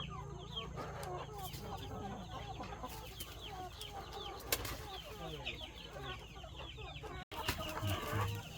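Chickens clucking, with many short, high, falling chirps repeating several times a second. The sound cuts out for an instant about seven seconds in.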